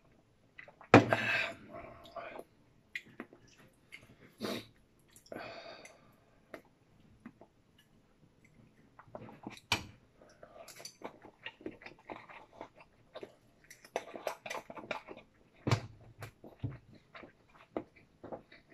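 Someone eating at a table: a loud breathy sound just after a sip from a bowl about a second in, then chewing with many short smacks and small clicks.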